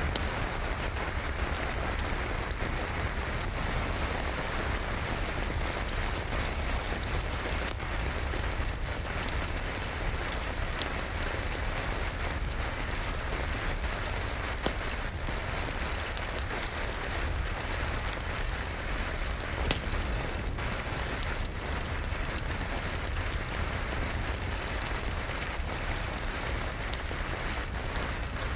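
Steady rain falling, an even hiss, with a few sharp crackles of a wood fire popping now and then.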